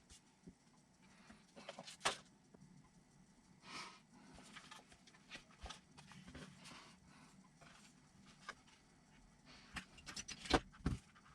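Small clicks and light rustling of hands handling small screws and hard plastic kit parts. There is a sharper click about two seconds in and a quick run of clicks near the end.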